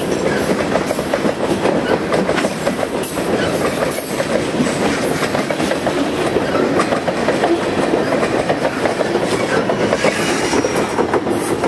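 Gondolas and tank cars of a New York, Susquehanna & Western freight train rolling past close by: a steady, loud rumble with rapid, irregular clicking and clacking of the steel wheels on the rails.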